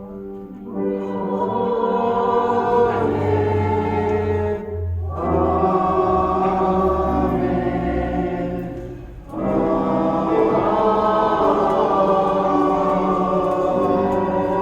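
Choir singing a slow sung response in sustained chords, in three long phrases with short breaths between them.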